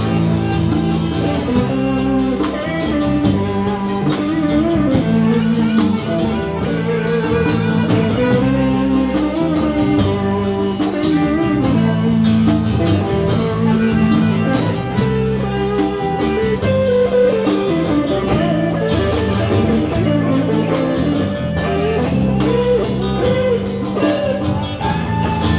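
Live rock-blues band playing an instrumental passage without singing: guitar to the fore over bass and a steady drum beat with regular cymbal strokes.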